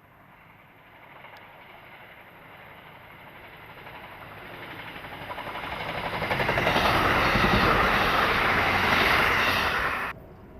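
A train approaching and passing, its rumble and wheel noise growing steadily louder over several seconds to a loud peak, then cutting off suddenly about ten seconds in.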